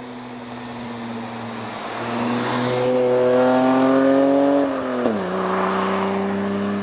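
BMW Z1's 2.5-litre straight-six engine and exhaust accelerating, its note rising and getting louder, then dropping sharply in pitch about five seconds in and carrying on at a lower, steady note.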